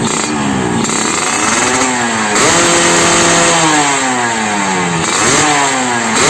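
Yamaha RX-King two-stroke motorcycle engine revved through an under-slung racing exhaust with a coiled header: the revs climb about two seconds in, hold high for a second or so, drop away, then climb again near the end.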